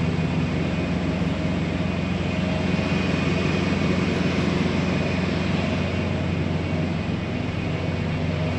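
Semi-truck's diesel engine idling steadily, a low even hum with no changes.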